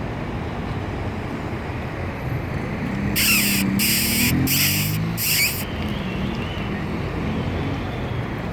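Steady city traffic noise, with four short harsh hissing bursts in quick succession about three seconds in.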